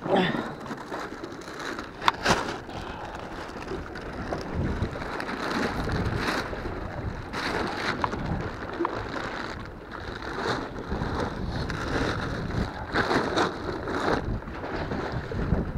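Wind buffeting the microphone, mixed with rustling and a few sharp knocks of gear being handled. The sharpest knock comes about two seconds in.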